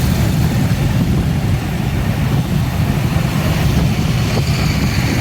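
Steady road traffic noise: vehicle engines running, with a heavy low rumble.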